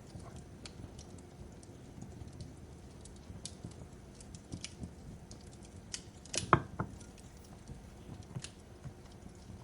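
Wood fire crackling in a fireplace: irregular sharp pops over a low steady rumble, with a louder cluster of pops about six and a half seconds in.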